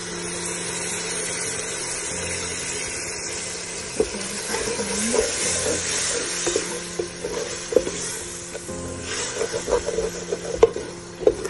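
Vinegar poured into a hot pot of fried shredded chicken sets off a sudden sizzle that keeps going. From about four seconds in, a wooden spoon stirs and knocks against the metal pot over the sizzle.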